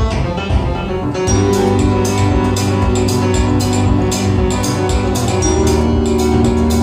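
Music played back through hi-fi loudspeakers. About a second in, a new passage starts with held bass notes over a steady beat.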